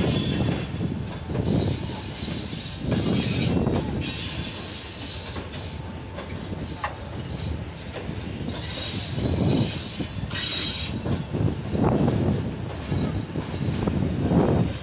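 Pakistan Railways passenger coaches of the Tezgam Express rolling slowly along the platform as the train pulls in: the wheels rumble on the rails, with a high wheel squeal at times.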